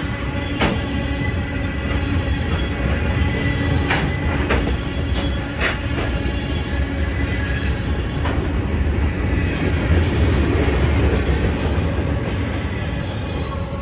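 Freight train of covered hoppers and flatcars rolling past close by: a steady low rumble of wheels on rail, with sharp clicks several times as wheels cross rail joints.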